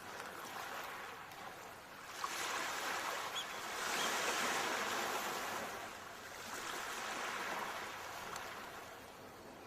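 Ocean waves washing onto the shore: a surge of surf builds about two seconds in and is loudest around the middle, then a smaller surge follows and the wash dies down near the end.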